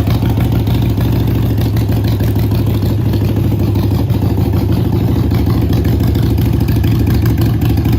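Harley-Davidson Sportster XL 883N Iron's air-cooled 883 cc V-twin idling steadily.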